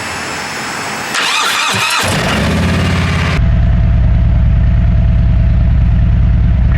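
Motorcycle engine cranked on its electric starter, catching about two seconds in and settling into a steady idle. The sound turns duller about three seconds in.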